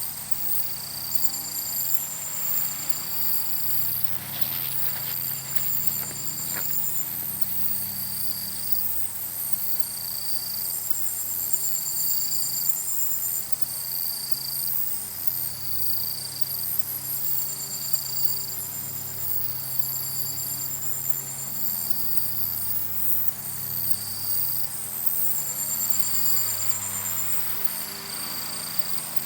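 Summer evening insects chirping: one high call repeating about every two seconds over fainter, higher pulsing trills, with a low steady hum underneath.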